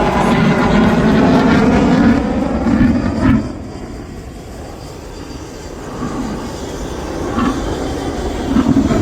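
Eurofighter Typhoon's twin EJ200 jet engines passing at show centre in afterburner: loud jet noise falling in pitch as it goes by, dropping away sharply about three and a half seconds in, then a quieter rumble that builds again near the end.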